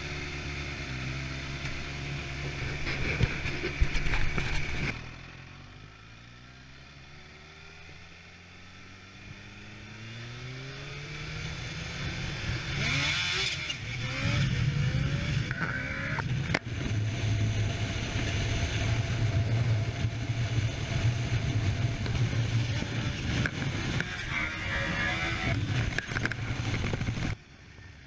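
Kawasaki H2 SX supercharged inline-four engine running and revving, then dropping away suddenly about five seconds in. It comes back rising steadily in pitch as it accelerates, then holds a loud steady drone until it cuts off near the end.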